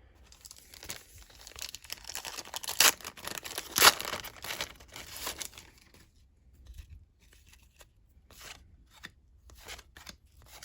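A trading-card pack wrapper being torn open and crinkled, with the two loudest rips about three and four seconds in. It is followed by scattered light taps and rustles of cards being handled.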